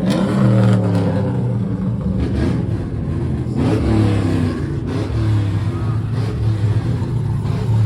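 Loud, heavy bass pumping from an aftermarket subwoofer box in a truck's bed, with a faint voice-like line over it.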